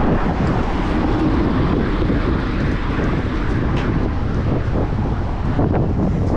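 Wind rushing over the microphone of a moving bicycle, steady and loud, with traffic and road noise mixed in.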